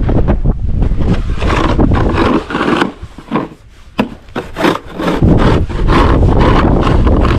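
Snow being cleared with repeated scraping strokes, with a lull in the middle and a longer continuous scrape near the end.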